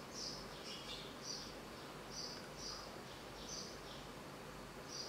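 Faint chirping of small birds: short, high chirps repeated about twice a second, often in pairs.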